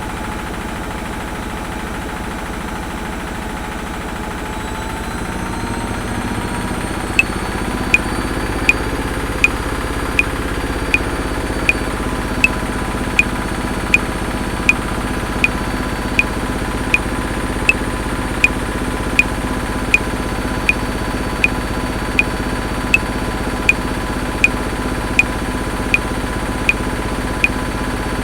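Washing machine running with a steady motor hum that rises in pitch and level about five seconds in, as the drum speeds up. Over it, a metronome starts clicking at 80 beats a minute about seven seconds in.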